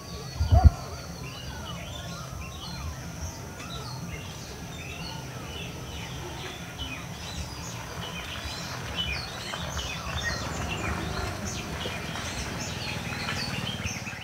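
Several birds chirping and singing at once, many short overlapping calls, over a low steady rumble. There is one dull thump about half a second in.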